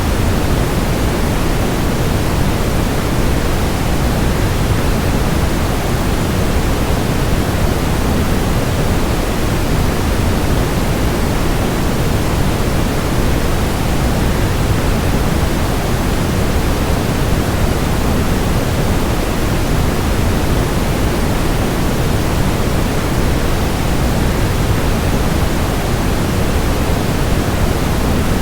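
Steady, even rushing noise of a waterfall blended with white noise, deepest in the low end and unchanging throughout.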